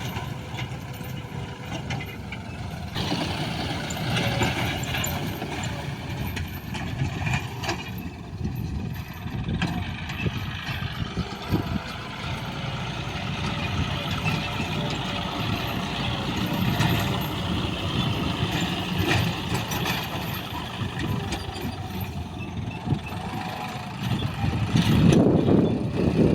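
John Deere tractor engine running steadily while working a field, getting louder near the end.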